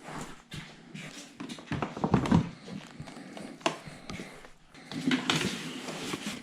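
Irregular knocks, clicks and rustling of gear being handled and packed, with footsteps, in a small room.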